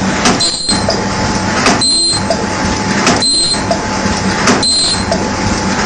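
Paper cup forming machine running in its production cycle. Each stroke, about once every second and a half, gives a sharp clack followed by a short high tone, over a steady low hum.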